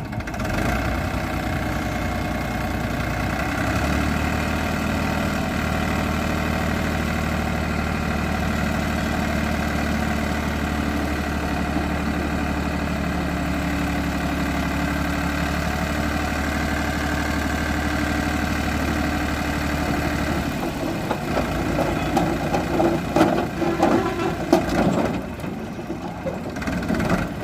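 Sonalika tractor's diesel engine running with a steady drone for about twenty seconds. The drone then drops away and the sound turns uneven, with louder irregular knocks and rattles near the end.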